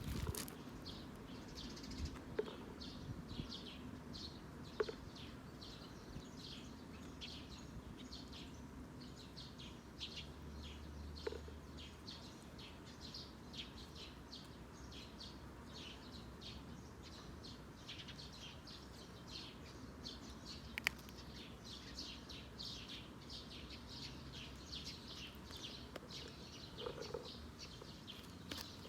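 Eurasian tree sparrows chirping continuously, several short chirps a second. A few sharp clicks are heard now and then.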